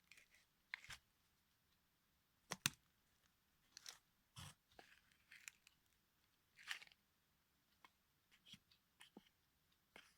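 Toy car crunching and cracking under a high heel: irregular sharp cracks and short crunches, the loudest a quick double crack about two and a half seconds in.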